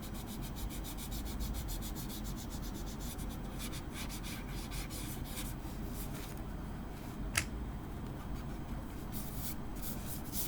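Pencil graphite being rubbed and blended into drawing paper in quick back-and-forth strokes, fast at first, then slower and more spaced out, with one sharp click about seven seconds in.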